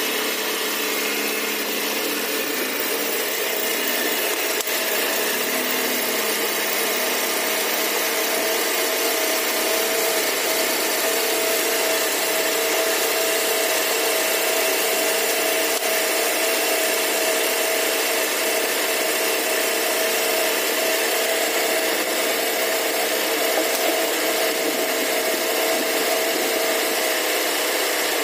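Proton Wira's engine idling steadily with the bonnet open, a constant whirr with a steady hum, run to fill and bleed the cooling system after a radiator change.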